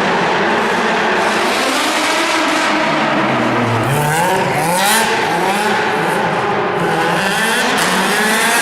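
Rally car engine revving hard through a drift, its pitch sinking low about halfway and then climbing again in repeated rises, over the screech of sliding tyres.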